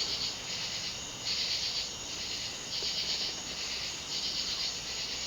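Insects chirping in a rhythmic, high-pitched pulse, swelling and fading about once a second.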